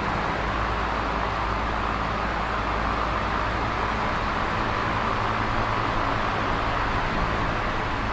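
Electric fan running steadily: an even rush of moving air with a low motor hum underneath.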